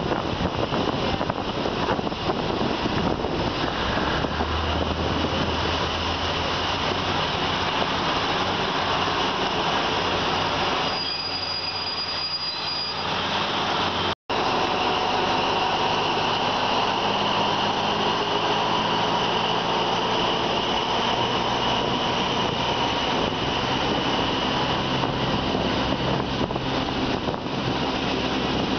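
Passenger train carriage rolling along the rails, a steady noise of wheels on track and air at the open window, with a steady high squeal of the wheels in the second half. The sound cuts out for a moment about halfway through.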